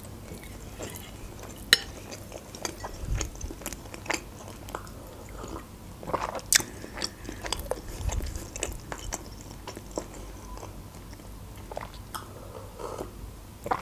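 Close-miked mouth sounds of chewing and swallowing a mouthful of manty dumpling, then sipping and gulping from a mug, with scattered small clicks and a couple of low swallowing thuds.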